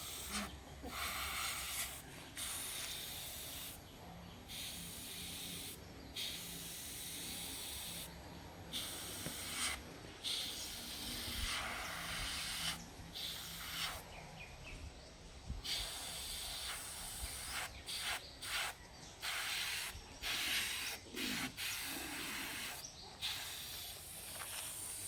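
Airbrush spraying paint with a steady hiss, broken off in many short gaps as the trigger is let go and pressed again, over a faint low hum.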